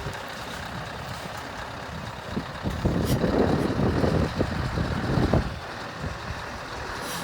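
Wind buffeting the microphone in irregular gusts, strongest from about two to five and a half seconds in, over a steady background hiss.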